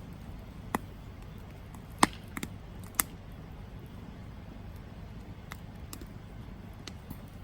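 Campfire burning with a low steady rumble as wood crackles and pops; a few sharp snaps stand out, the loudest about two and three seconds in.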